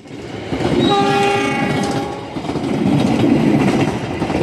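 Passenger train passing close by. About a second in, a locomotive horn sounds one steady note for just over a second, over the running noise of the coaches rolling on the rails, which carries on after the horn stops.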